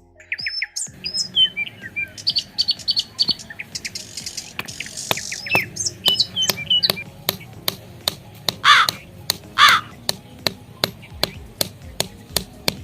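Birds chirping and calling, with two louder calls about nine and ten seconds in, over a run of sharp clicks at roughly one to two a second.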